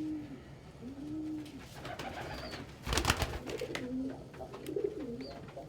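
Domestic pigeons cooing: a series of low, arching coos, then warbling coos in the second half, with a few short high chirps. A brief loud noisy flurry comes about three seconds in.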